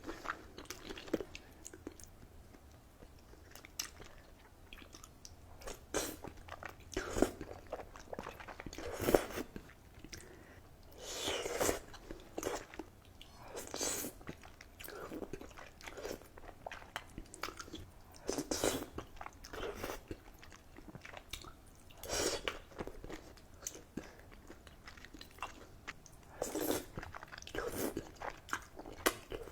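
A person eating cheesy Buldak ramen close to the microphone: irregular mouth and chewing sounds, with louder bursts every few seconds.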